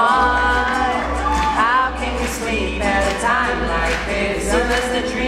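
Live pop-folk band performance: vocals singing over acoustic band accompaniment, some notes held and others sliding in pitch.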